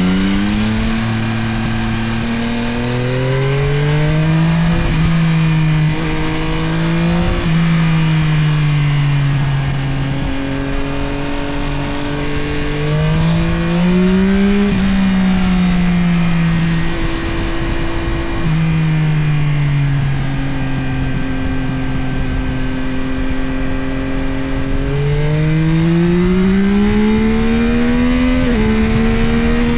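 Yamaha Tracer 9 GT+'s 890 cc CP3 inline-three engine pulling hard, its pitch climbing and then dropping at each upshift, with a steady cruise in the middle before a last climb and upshift near the end. Wind rushes past the bike throughout.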